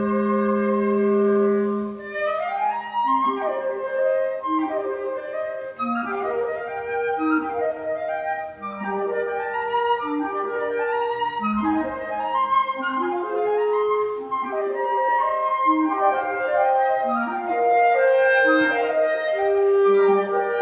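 Flute and two clarinets playing a woodwind trio. It opens on a held chord for about two seconds, then breaks into quick, interweaving runs of short notes.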